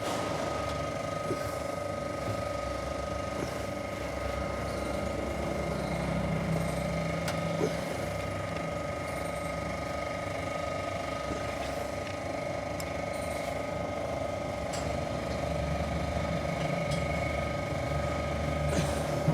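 A steady mechanical hum with several fixed tones and a low rumble that swells and fades twice, with a few faint metallic clicks.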